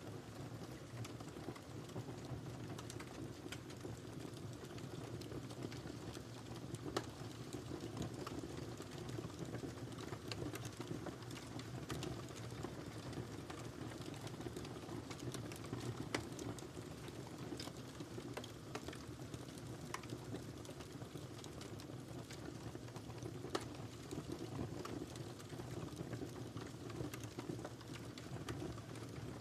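Wood fire crackling in a fireplace: a steady low rush of burning with scattered snaps and pops, several of them sharper and louder than the rest.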